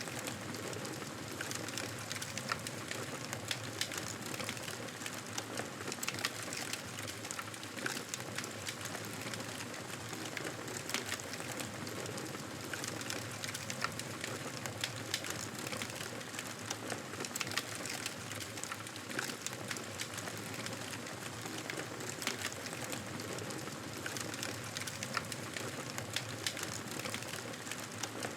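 Wood fire burning: a steady hiss with frequent sharp crackles and pops scattered irregularly throughout.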